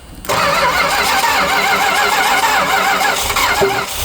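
Starter motor cranking the 1974 Chrysler Imperial's 440 cubic-inch V8 on a cold start after long storage, with an even rise and fall each turn over, for about three and a half seconds; the cranking stops just before the end as the engine is about to catch.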